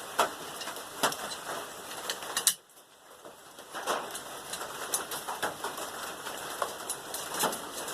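Irregular small metal clicks and clinks as a camera mount is bolted onto a steel tubing holder, with a sharp knock about two and a half seconds in before a second of near quiet.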